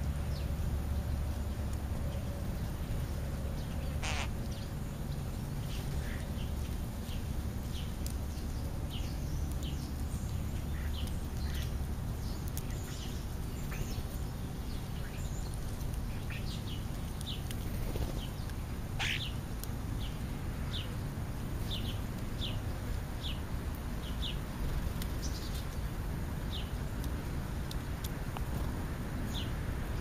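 Birds calling around a ground feeding spot: a long run of short, high, downward-slurred chirps, with two louder calls about 4 and 19 seconds in. A steady low rumble runs underneath.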